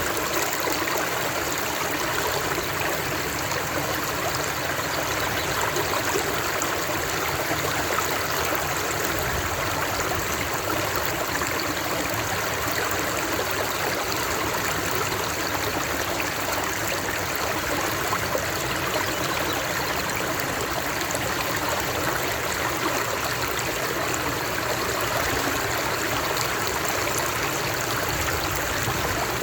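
Steady rushing and trickling of flowing stream water, an even unbroken wash of sound.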